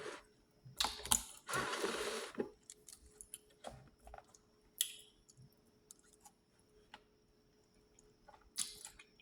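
Scattered small clicks and a short rustling noise about a second and a half in: food containers and utensils being handled at a table.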